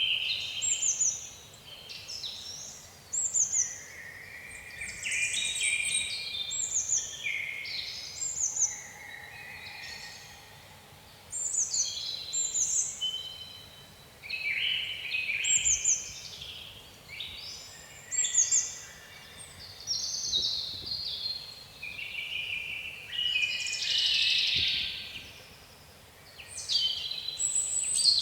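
Songbirds singing in quick, overlapping phrases with short gaps between them, including repeated short falling whistles.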